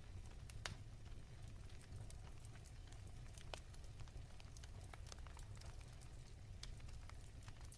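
Wood fire crackling softly: irregular small pops and snaps over a low, steady rumble.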